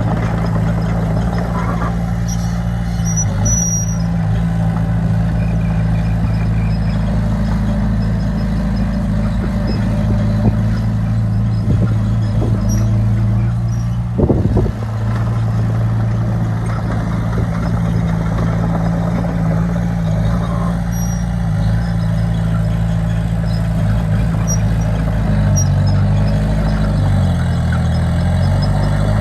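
Heavy diesel machinery engine running steadily under load, dropping in speed briefly near the end and picking back up. A short sharp knock about halfway through.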